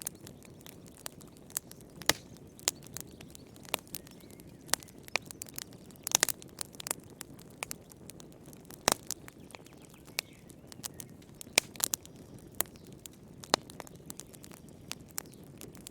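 Wood fire in a fireplace crackling, with irregular sharp snaps and pops over a low, steady hiss of burning.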